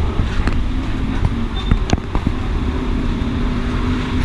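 Steady low rumble of road traffic, with a few sharp clicks and a steady low engine hum setting in about halfway through.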